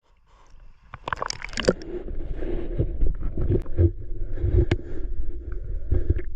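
Underwater sound in a stream: a steady muffled rumble of moving water with many sharp clicks and knocks.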